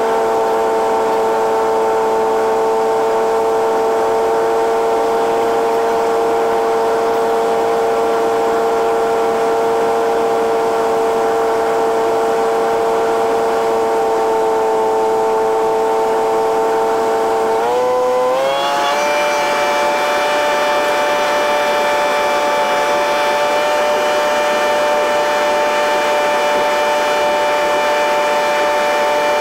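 Cessna 172N's four-cylinder Lycoming engine and propeller droning steadily in cruise. About eighteen seconds in the pitch rises quickly and settles on a higher, steady note as power is added.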